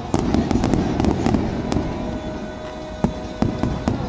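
Fireworks display going off: many sharp bangs and crackles of bursting shells in quick succession, densest in the first two seconds, with a couple of louder single bangs about three seconds in.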